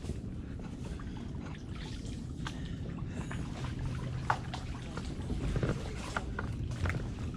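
Kayak paddle dipping in the water, with water splashing, trickling and dripping off the blades. Scattered small clicks and one sharp knock about four seconds in sit over a steady low rumble.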